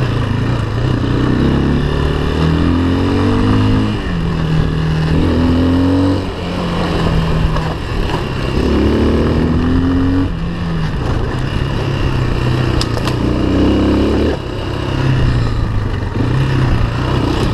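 Off-road vehicle engine under way, its pitch climbing as it accelerates and then dropping back, about four times over, with a steady rushing noise from wind and terrain.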